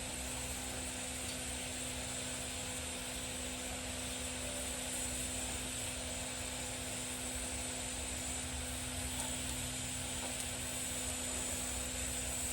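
A steady machine hum with a constant hiss, unchanging throughout, with no distinct knocks or strikes.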